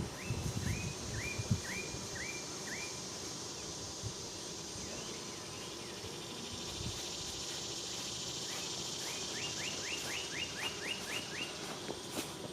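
A songbird calling in repeated short chirps: a slow series of about five early on, then a quick run of about ten near the end. Under it, a steady high drone of insects, with a few soft thumps at the very start.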